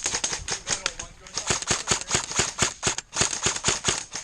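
Airsoft electric rifle, a JG M14 EBR, firing a rapid, uneven string of sharp shots, several a second, with short pauses about a second in and about three seconds in.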